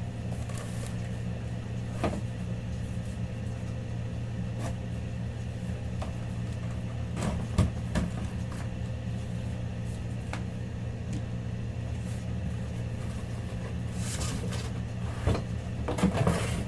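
A cardboard product box being handled and opened: scattered taps, knocks and short rustles of packaging, the loudest about halfway through and near the end, over a steady low hum.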